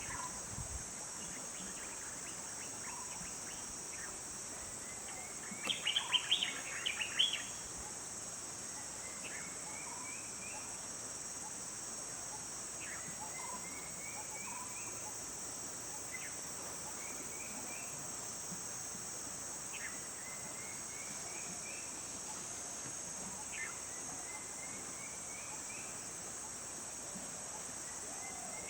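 Jungle ambience: a steady high-pitched insect drone, with a bird singing a short phrase of quick rising notes again and again every few seconds. About six seconds in there is a brief burst of louder, chattering bird calls.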